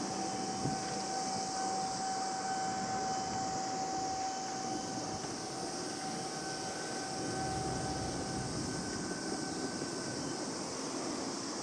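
Low-floor tram running with a steady electrical whine over the rolling noise. The whine stops about three quarters of the way through.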